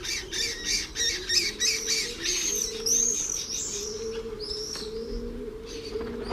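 A colony of lesser kestrels calling, their shrill, rapidly repeated chattering cries mixed with the screams of swifts.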